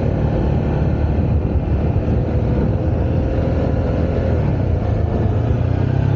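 Honda CB125R's 125cc single-cylinder engine running steadily under way, with wind and road noise on the helmet-mounted microphone.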